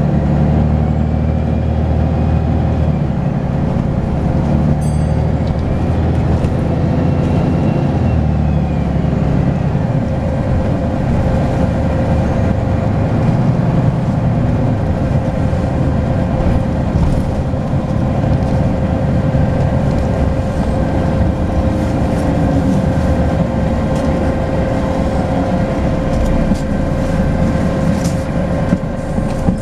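Volvo B10BLE bus's six-cylinder diesel running under way, with the turbocharger whistle rising and falling twice in the first third and a steady whine beneath.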